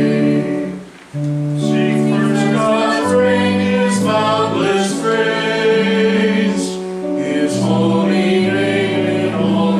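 Voices singing a hymn in long held notes, with a short break between phrases about a second in.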